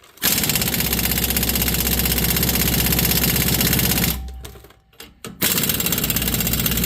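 Air impact wrench hammering on rusted leaf-spring U-bolt nuts in two runs: one of about four seconds, a short pause, then a second run starting about five and a half seconds in.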